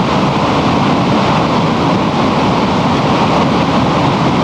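Floodwater pouring through a dam's fully opened gates and valves: a loud, steady rush of water.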